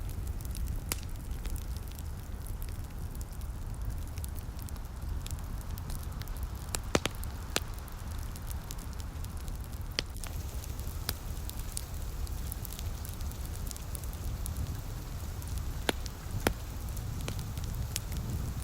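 Wood fire crackling, with scattered sharp pops over a steady low rumble and a faint hiss of light rain.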